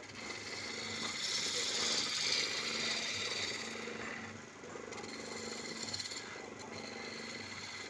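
Wood lathe running with a steady motor hum and the hissing scrape of a turning tool cutting the spinning wood, loudest about two seconds in.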